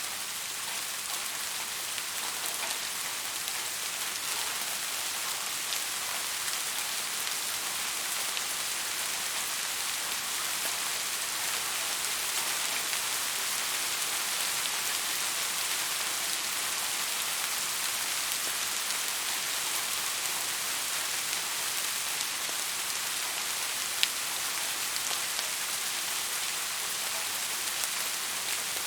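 Steady rain falling, an even hiss of many drops with faint scattered drop ticks and one sharp click late on.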